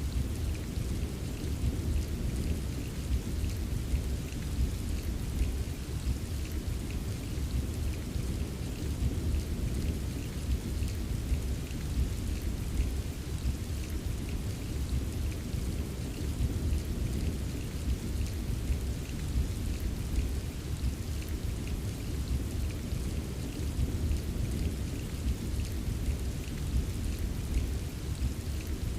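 Steady rain with many small drop ticks, over a continuous low rumble of distant thunder.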